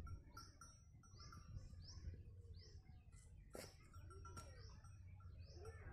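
Faint bird chirping: short, high chirps repeat about twice a second, with two sharp clicks a little past the middle.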